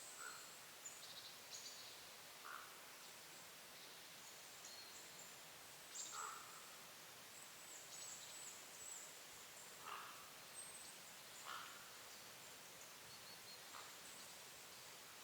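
Faint woodland birdsong: small birds giving thin, very high-pitched calls throughout, with a short lower note every couple of seconds.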